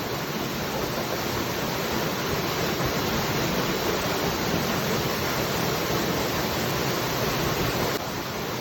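Waterfall: water falling in a steady, even rush that dips a little in level near the end.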